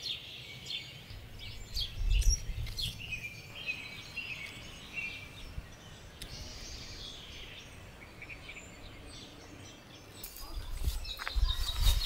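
Small garden birds chirping and twittering over a low outdoor background, with low rumbles about two seconds in and again near the end.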